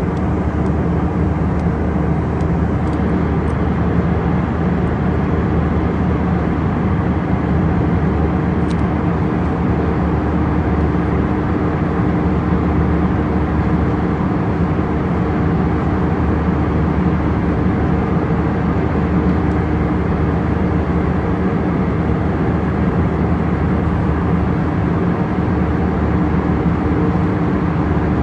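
Steady drone of a vehicle running at constant speed: an even rushing noise with a hum of several steady tones underneath, unchanging throughout.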